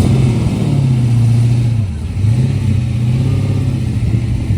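A vehicle engine revving: its pitch climbs and holds, drops briefly about two seconds in, then climbs and holds again.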